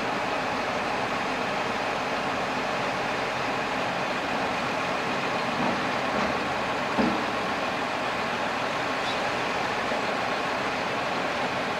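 Ufkes Greentec 952 Mega wood chipper running steadily, with a few short knocks about halfway through as branches go in.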